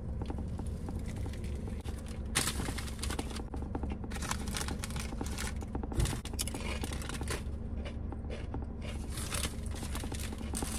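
Close-up eating sounds: chewing a toasted sub and crunching Doritos tortilla chips, in irregular crisp bursts. The sub's paper wrapper crinkles as it is handled, and there is one sharp knock about six seconds in.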